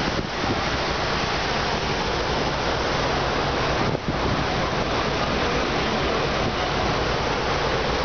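Steady rush of water pumped over a shipboard surf simulator's wave surface, mixed with wind on the microphone, with a brief dip about four seconds in.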